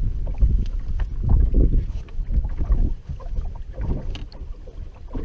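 Wind buffeting the microphone in uneven gusts on an open fishing boat, a heavy low rumble that eases a little after about three seconds. A few small sharp clicks sound over it, one about four seconds in.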